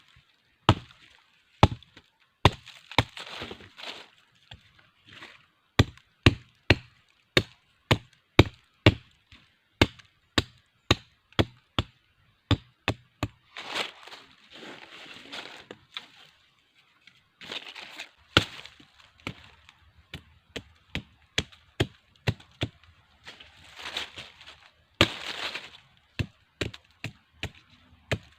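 A blade chopping wood in a steady series of sharp strikes, about one or two a second, with rustling of handled sticks or brush between the strokes.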